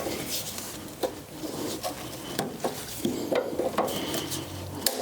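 Hand tools and metal parts clinking and clicking as a car's front brake line and fittings are worked on, a string of irregular light metallic clinks.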